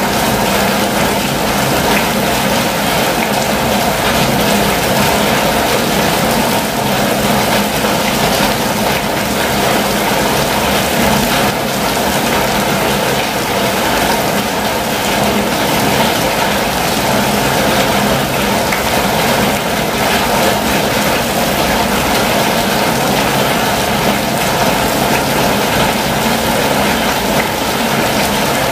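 Steady rain falling on a campervan's roof and windows, heard from inside the van: a constant even hiss with a faint steady hum beneath it.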